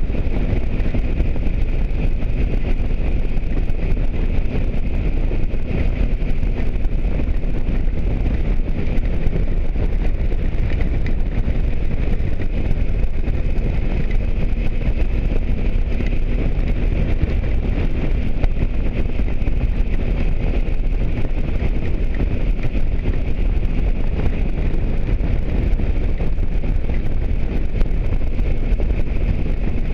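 Motorcycle riding at a steady speed: constant wind rush on the microphone and road noise, with a faint even engine drone underneath.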